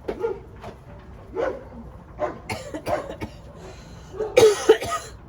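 Several cats meowing in short repeated calls while they crowd for a lickable treat. Two harsh, rough bursts come about halfway through and near the end, the second the loudest sound here.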